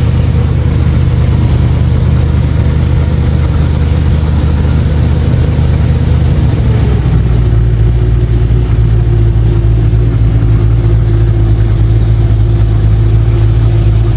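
Boat motor running steadily, its note changing about seven seconds in and then holding.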